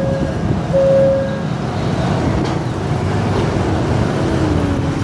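Train rumbling past a railway level crossing, with a steady beep sounding three times in long beeps about once a second in the first second and a half. A lower tone slowly falls in pitch near the end.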